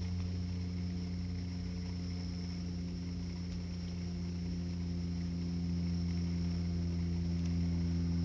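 Steady low mechanical hum of a running motor, with a faint high-pitched whine above it, getting slightly louder about two-thirds of the way through.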